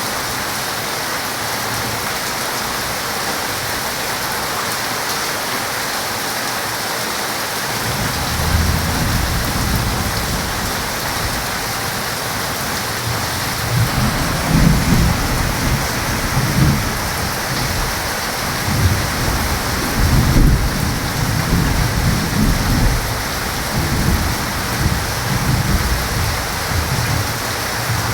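Heavy rain falling steadily, with a long roll of thunder that starts rumbling about eight seconds in and swells in repeated low rolls through the rest.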